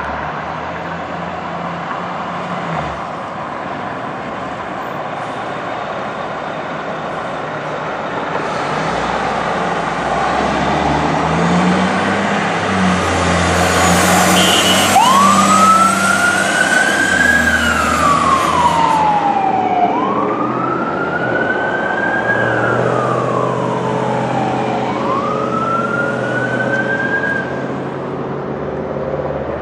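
Fire engine siren on the approach over heavy vehicle engine and traffic noise. About halfway through the siren starts a slow wail, rising and falling three times, as the loudness peaks.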